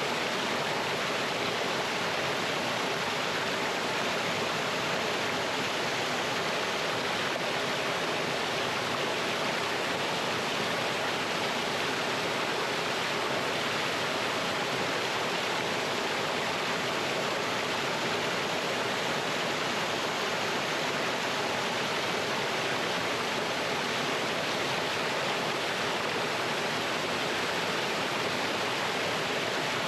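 Mountain stream pouring over rocks in a small waterfall: a steady, even rush of water.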